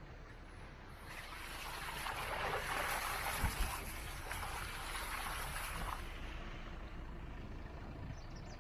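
Water from a full dam pouring down over the spillway: a steady rushing noise that builds over the first two or three seconds and then holds.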